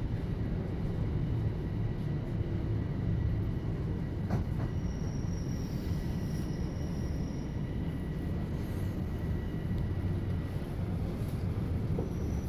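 Toronto subway Line 1 train heard from inside the car as it comes into a station: a steady low rumble with a thin whine running under it, and a brief high squeal about five seconds in.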